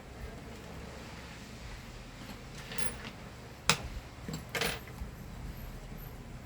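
Screwdriver clinking and scraping against metal while the remains of a shattered bearing are pried out of the vacuum motor's bearing housing. A few separate metallic clicks, the sharpest one a little past the middle.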